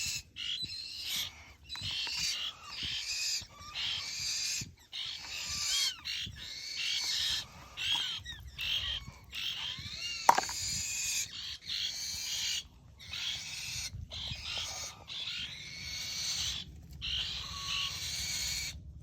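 Birds calling: dense runs of high chirps and short arched whistled notes, broken every second or so by brief pauses.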